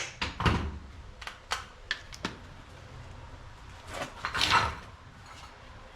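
Knocks and clicks from parts being handled and fitted by hand: a sharp knock at the start, several lighter taps over the next two seconds, and a louder rattling clatter about four seconds in.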